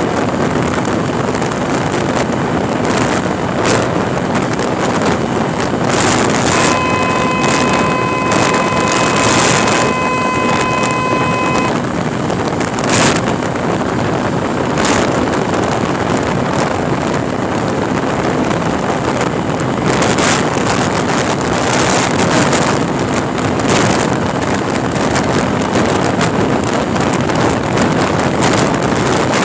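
Honda Unicorn's 150 cc single-cylinder engine held at high revs near top speed, about 100 km/h, mostly buried under heavy wind buffeting on the microphone. A steady high tone sounds for about five seconds in the first half.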